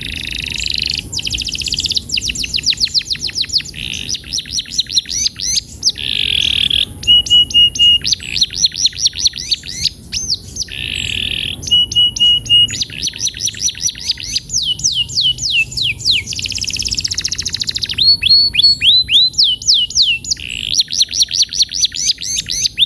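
Domestic canary singing a long, continuous song: fast trilled rolls of rapidly repeated notes, runs of falling sweeps, buzzy phrases and short held whistled notes, changing phrase every second or two.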